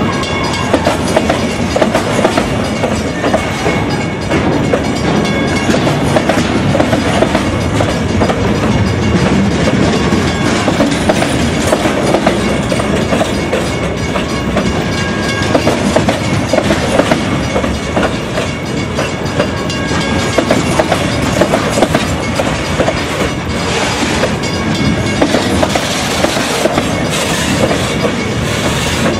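Freight train rolling past at close range, its wagon wheels clattering steadily over the rail joints.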